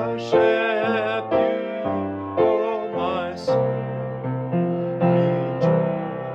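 Slow piano music, with a new chord or note struck every half second to second and a held melody line with vibrato above it.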